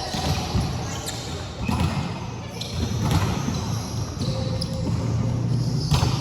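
A volleyball game in a gym hall: the ball is struck and hits the floor with sharp slaps several times, echoing in the hall, over players' voices.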